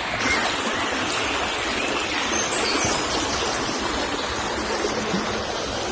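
River water flowing and rushing with a steady, even sound.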